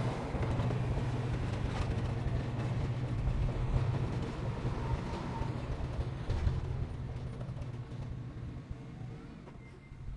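Heavy diesel earthmoving machinery running steadily, with metallic knocks and rattles over the engine drone. The sound eases off over the last couple of seconds.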